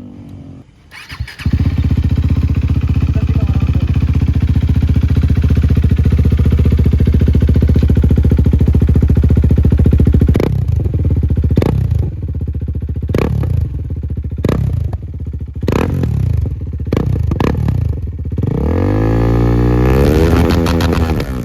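KTM RC 390's single-cylinder engine and exhaust, stationary: it comes in loud about a second and a half in and idles steadily. From about ten seconds in it is blipped about seven times in quick succession, then given a longer rev that rises and falls near the end.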